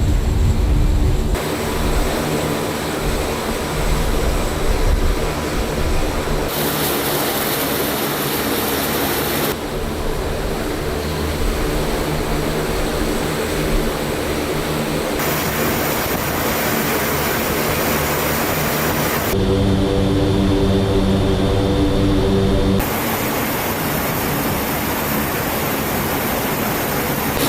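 C-130J Super Hercules's four turboprop engines and six-bladed propellers running, a steady drone with several held tones. The sound changes abruptly every few seconds as different clips are spliced together.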